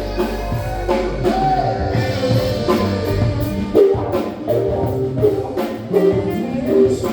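Live rock band playing, with electric guitar and drum kit, and a voice singing.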